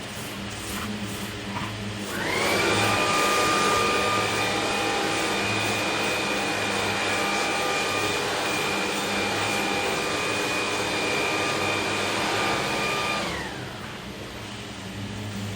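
A high-pitched electric fan motor spins up with a quick rising whine about two seconds in. It runs steadily with a rushing of air for about eleven seconds, then winds down.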